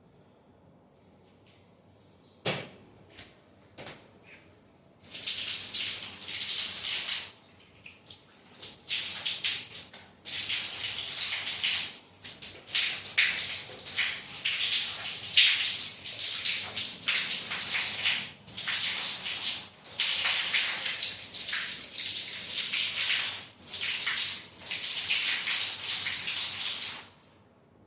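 Water rushing and hissing in repeated bursts of one to two seconds with short breaks, starting about five seconds in after a single click.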